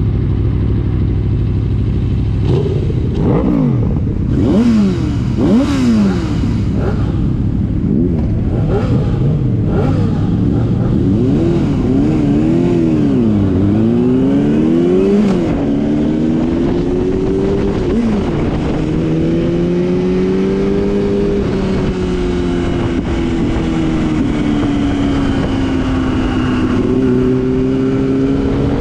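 Motorcycle engine at speed on a race track, its revs climbing and dropping sharply again and again through the first half as it shifts and brakes. After that it holds high revs, with the pitch changing only slowly.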